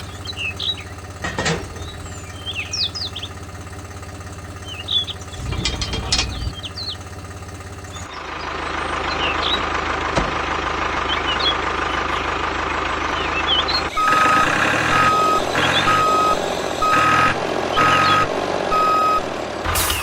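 A vehicle's engine running steadily, with birds chirping. In the last third a reversing alarm beeps six times, about once a second.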